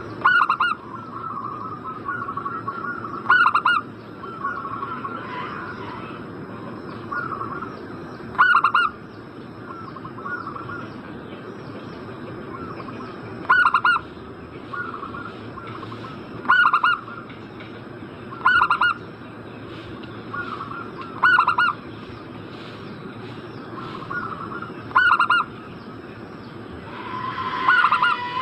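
Zebra dove (perkutut) cooing: runs of soft rapid coo notes, broken every few seconds by a louder short stuttering coo phrase, nine of them in all. A faint steady high tone sits underneath.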